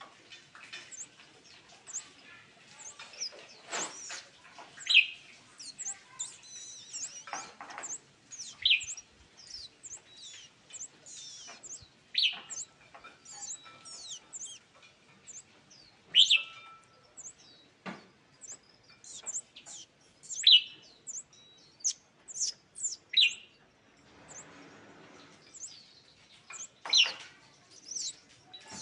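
Scarlet-backed flowerpecker calling: a busy run of short, thin, very high chips, with a louder, lower call every three to four seconds.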